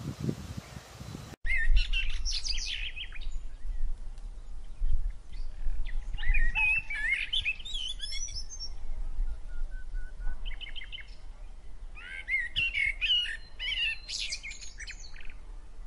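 Small birds chirping and twittering in several bursts of quick high notes, over a steady low rumble.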